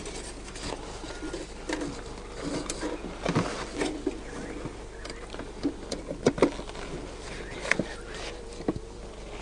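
Scattered clicks and knocks of a hive clip being fitted back onto the boxes of a Langstroth beehive, closing the hive up.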